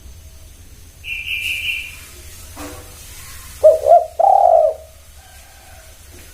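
Spotted dove (tekukur) cooing: two short notes and then a longer one, about halfway through. A high whistled note from another bird comes about a second in.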